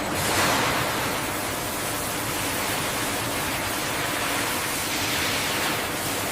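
A steady rushing hiss with no rhythm or tone.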